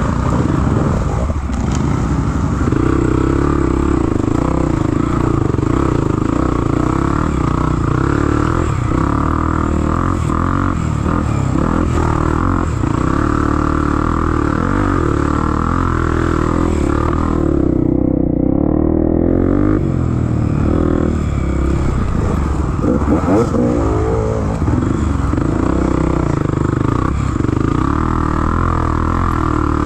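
Off-road motorcycle engine running steadily under throttle, with a few quick swings in pitch past the middle as it is revved.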